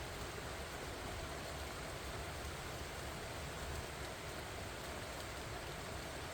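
Steady rain falling on pumpkin vines, an even hiss with a low rumble underneath.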